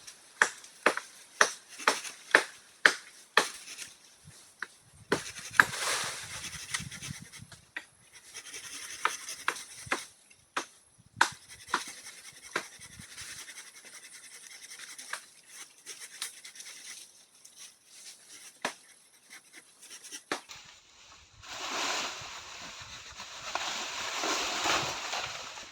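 A tool striking wood: a quick series of sharp knocks, about two a second, followed by scattered knocks and rustling. The noise swells near the end.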